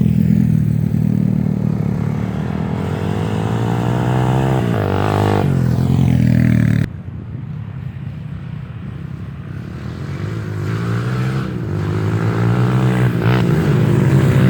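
Off-road dirt bike engines revving, the pitch climbing and falling with the throttle. About seven seconds in the sound drops abruptly to a quieter, duller engine note, then builds up again.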